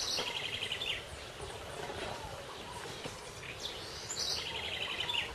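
A bird calling twice, about four seconds apart, each call a quick falling high note followed by a fast trill, over a steady outdoor background noise.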